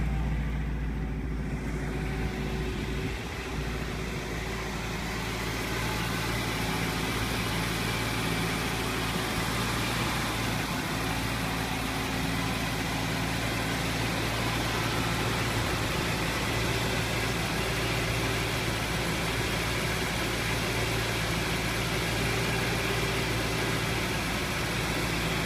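Rebuilt original 283 small-block V8 of a 1964 Chevrolet Impala idling steadily.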